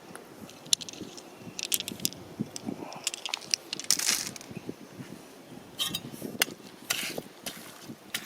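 River stones and gravel clicking, clacking and scraping against one another in irregular sharp knocks, with brief grinding scrapes about four seconds in and again near seven seconds.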